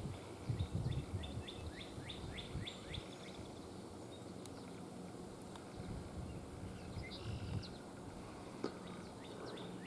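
Tree swallows chirping: a quick run of short, falling chirps for the first few seconds, then a few more around seven seconds in and near the end.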